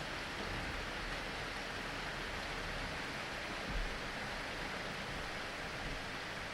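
Steady rain falling, an even hiss, with a brief low thump a little past the middle.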